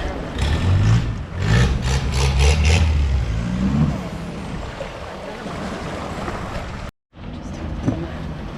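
Longtail boat engine revving up in several rising sweeps, then running more steadily under wind and water noise.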